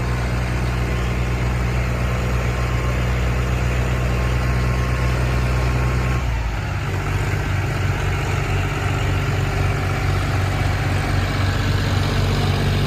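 Tractor diesel engine running steadily, its note changing about six seconds in.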